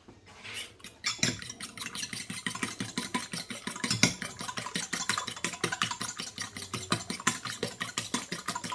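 An egg being beaten by hand in a bowl: a utensil tapping against the bowl in a fast, even rhythm of several strokes a second, starting about a second in.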